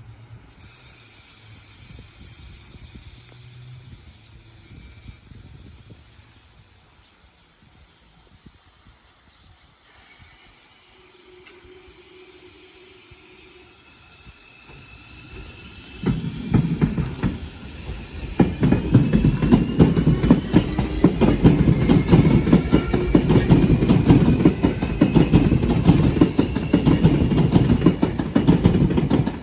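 Steady hiss of rain, then a train comes past close from about halfway through: its wheels clack rapidly over the rail joints under a faint rising whine, loud until the end.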